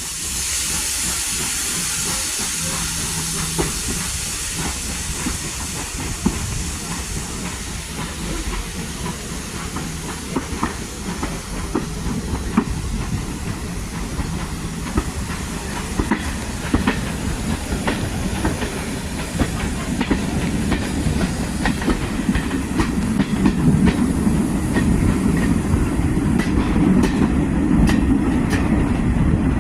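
Steam hissing loudly at first and slowly fading, while a train runs along the track with a low rumble and scattered clicks of the wheels on rail joints, growing louder toward the end.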